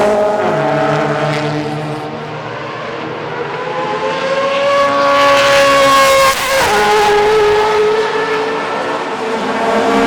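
Classic DTM touring cars racing past. One engine accelerates with its pitch climbing for several seconds, then drops abruptly on a gear change about six seconds in, while other engines keep running.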